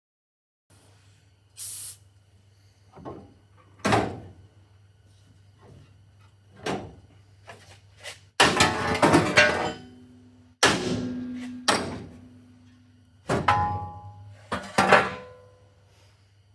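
Irregular metal clanks and knocks, several leaving a short ringing note, with a dense, loud stretch of clattering about eight to ten seconds in, over a steady low hum.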